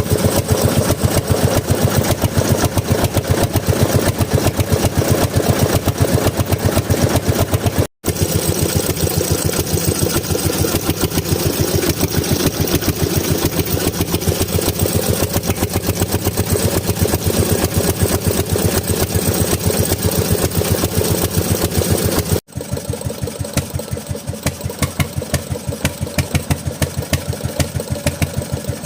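Bernard Moteurs W14 15 hp engine running steadily with an even, regular firing beat. The sound breaks off abruptly twice, about eight seconds in and again about two-thirds of the way through, and comes back a little quieter after the second break.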